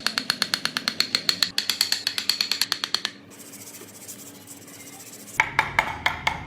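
A hand tool working wood with rapid back-and-forth strokes, about ten a second for three seconds. Then comes a quieter stretch, and near the end the strokes are slower and lower-pitched.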